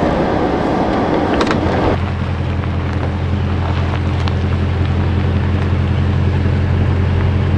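Truck being driven, heard from inside: a rushing noise for about the first two seconds, then a steady low engine drone.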